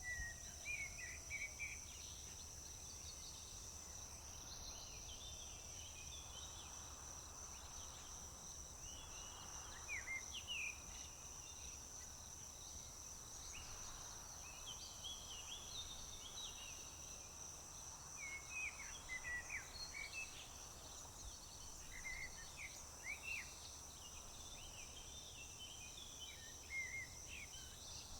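Outdoor summer soundscape: a steady, high-pitched insect trill, crickets, runs throughout while songbirds chirp in short, quick bursts of notes over it. A faint low hum sits underneath.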